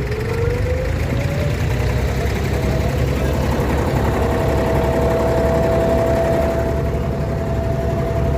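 Engine of an abra water-taxi boat running under way, with a low rumble. Its pitch rises over the first second and a half, then holds steady.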